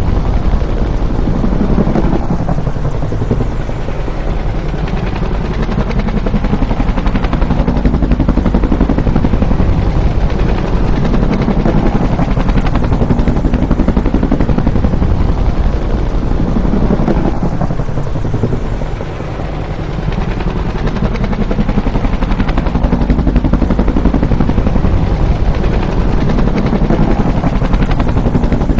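Bell UH-1 "Huey" helicopter with its two-bladed main rotor, beating loudly as it passes. The fast rotor chop swells and fades in waves, easing off briefly about four seconds in and again just before the twenty-second mark.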